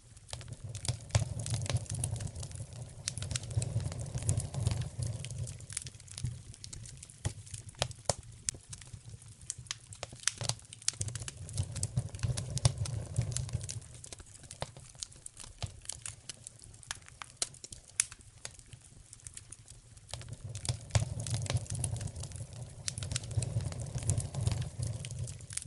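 Wood fire in a fireplace crackling, with many sharp pops and snaps over a low rumble of the flames that swells and fades three times.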